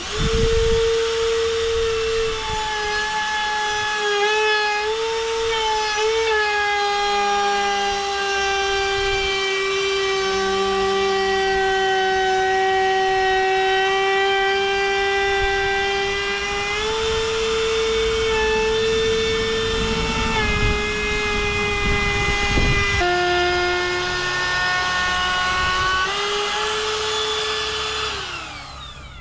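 Electric router running at high speed, cutting a decorative edge profile along a clamped timber board. Its steady high whine wavers and drops in pitch as the cutter takes load, then winds down near the end.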